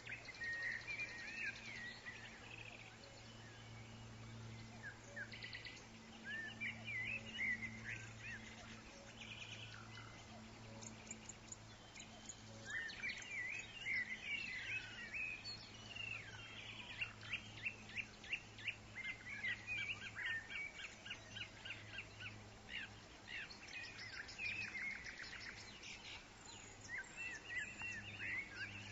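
Several woodland songbirds chirping, whistling and trilling, overlapping one another, over a faint steady low hum.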